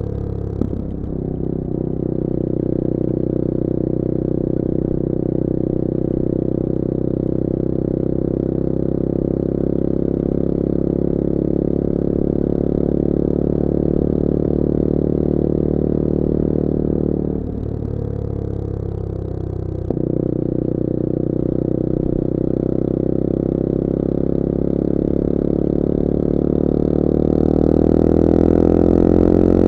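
Bullit Hero 250's CF Moto-engined 250cc four-stroke motorcycle engine running at steady cruising revs. A little past halfway the engine note dips briefly, with a click as it picks up again, and near the end the revs climb.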